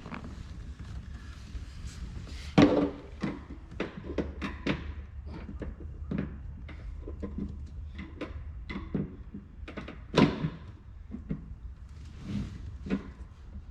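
Hand work on equipment: a string of irregular knocks, clicks and clunks over a low steady hum, with two louder thunks, one about two and a half seconds in and one about ten seconds in.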